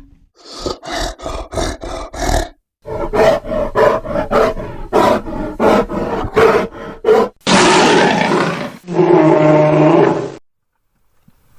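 Grizzly bear vocalising: a rapid run of short, loud grunting pulses, then two longer roars about seven and nine seconds in, cut off abruptly.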